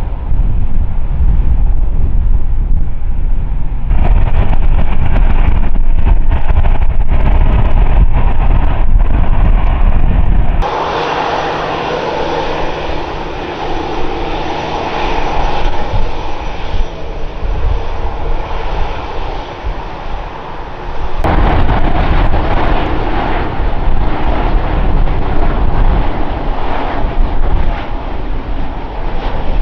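Airliner engines running, mixed with heavy wind buffeting on the microphone. The sound changes abruptly twice where the shots cut; the middle stretch is a steadier engine noise with held tones and little wind rumble.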